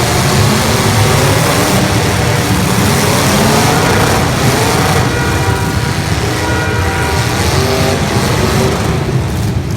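Several demolition derby cars' engines revving hard together, their pitches rising and falling against one another.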